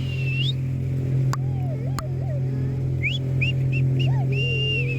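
People on a cruise boat whistling to call dolphins: a held whistle at the start, a string of short whistles about three seconds in and a long steady whistle near the end. Underneath is the steady drone of the boat's engine, and two sharp clicks come between the whistles.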